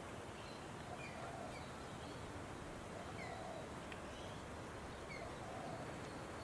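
Outdoor ambience: a steady hiss of background noise with faint, short, descending bird chirps repeating about once a second.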